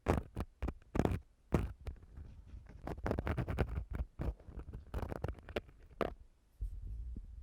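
Ear-cleaning tool scraping and rubbing against a microphone for ASMR ear cleaning: irregular scratchy strokes, a few a second, with a denser run of rubbing in the middle and low rumbling underneath.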